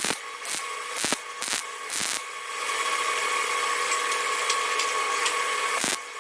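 Handheld electric power tool working steel, its motor whining over a steady hiss. It cuts in with sharp strokes about twice a second for the first two seconds, then runs in one steady pass until it stops near the end.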